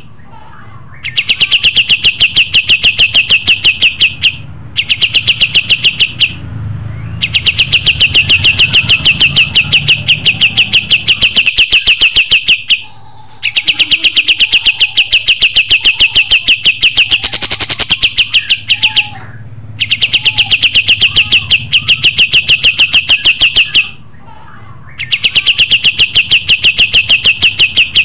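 A white-shouldered triller (kapas tembak) singing loud, rapid trills: about six long phrases of fast repeated high notes, each lasting a few seconds, separated by short pauses.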